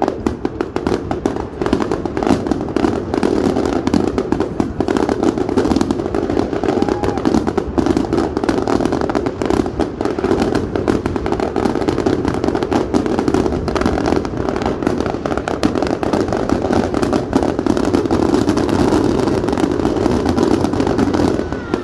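Fireworks going off in a dense, unbroken barrage of rapid pops and crackles.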